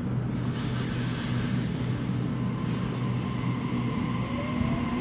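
Sydney Trains A-set electric suburban train pulling away from the platform: a steady electric hum, with a short hiss in the first second and a motor whine rising slowly in pitch near the end as it gathers speed.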